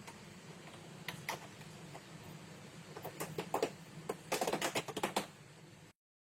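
A run of sharp light clicks and taps over a steady low hum, growing into two quick clusters in the second half; the sound cuts off suddenly shortly before the end.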